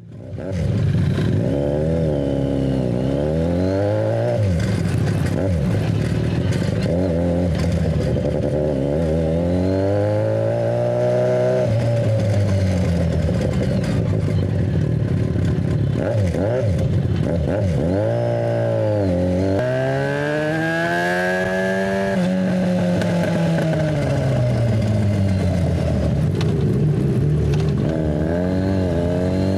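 Yamaha FZ6's inline-four engine through a GPR Ghost aftermarket exhaust, accelerating and easing off again and again in traffic, its pitch climbing with each pull and dropping as the throttle closes.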